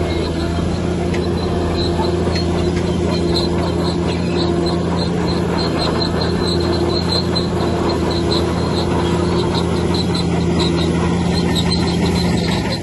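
Heavy diesel engine of a bulldozer running steadily, with short, high-pitched squeaks coming on and off throughout.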